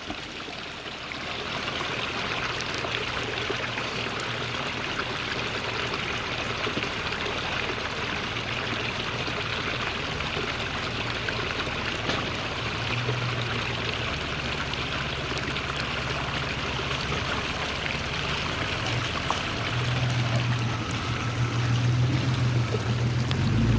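Creek water running steadily. About halfway through, a vehicle engine's low hum comes in underneath and grows louder near the end.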